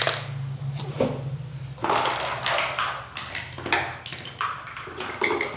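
Plastic toys being handled and knocked together in irregular clatters, over a steady low hum.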